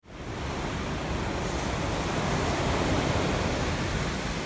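Ocean surf washing on a beach, a steady noisy rush that fades in at the start.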